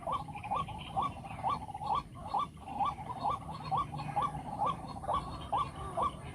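White-breasted waterhen calling: short notes, each rising in pitch, repeated evenly about twice a second.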